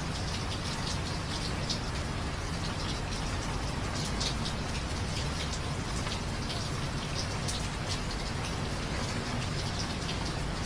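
Steady rain, with many separate drops striking close by over a constant low rumble.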